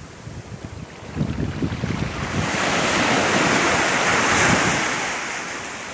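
Sea waves washing onto the shore, one wave surging up about two seconds in and subsiding near the end, with wind buffeting the microphone.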